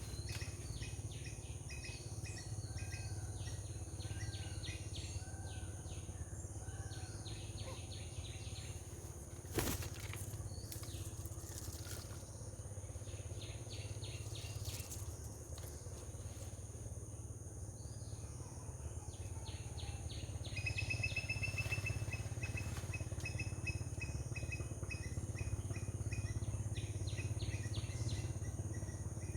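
Outdoor bird and insect ambience: a steady high insect drone under repeated short bird chirps, with a quick run of whistled notes a little past two-thirds of the way through and a low hum throughout. One sharp knock about ten seconds in.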